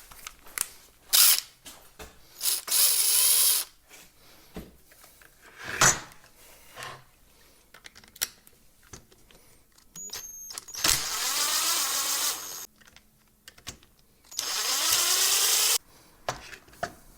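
Cordless impact driver running in three short bursts of about one to two seconds each, backing screws out of a whipper snipper's plastic housing. Sharp clicks and knocks from the tool and parts being handled come between the bursts.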